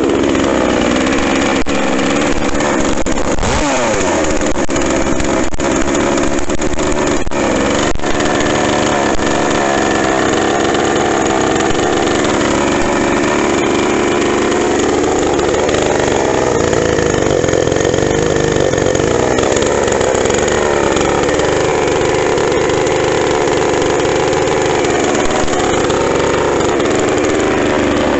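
Two-stroke Pinkway gas chainsaw, fitted with a 24-inch NeoTec bar and chain, running loud at high revs while cutting wood. Its pitch sags and picks up again several times as the chain is loaded in the cut.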